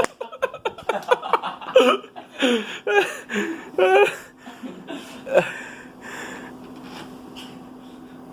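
People laughing and giggling in short bursts through the first half, then a faint steady low hum.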